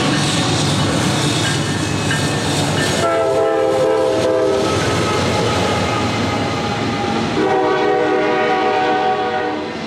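Norfolk Southern freight train passing close by: diesel locomotives running under power over the rumble and clatter of wheels on rail. A multi-tone locomotive horn sounds two long blasts, the first about three seconds in and the second about seven and a half seconds in.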